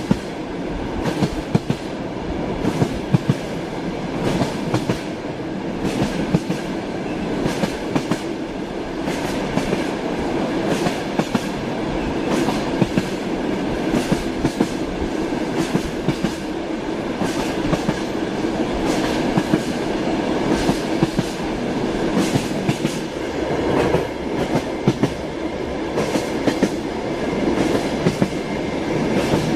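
Train wheels clattering over the rail joints as the train runs steadily, with a continuous rumble and many sharp clicks.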